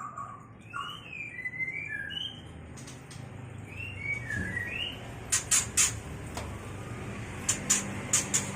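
White-rumped shama calling in breeding condition: short whistled chirps and gliding notes that rise and fall in pitch, followed by two quick runs of about three sharp clicks.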